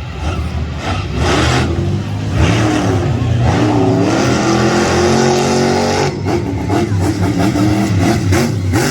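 Monster truck engine revving hard, its pitch repeatedly rising and falling through a freestyle run.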